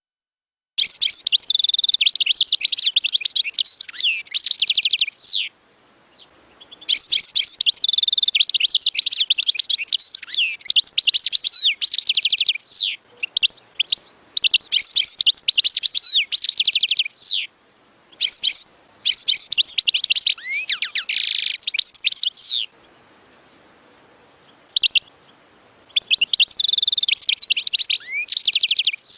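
European goldfinch singing: fast, high twittering and trilling phrases a few seconds long, about seven bursts of song separated by short pauses.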